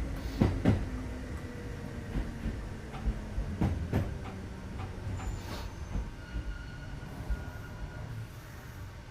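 Kintetsu 2430 series commuter train heard from on board, slowing to a stop: a falling whine, a few sharp knocks in the first half, then a quieter steady hum as it stands.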